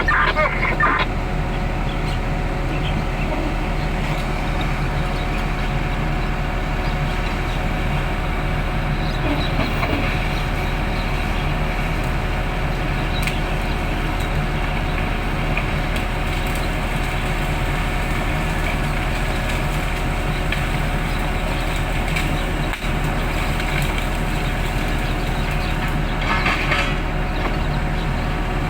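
Heavy machinery engine running steadily, a low, even drone with a constant pitch.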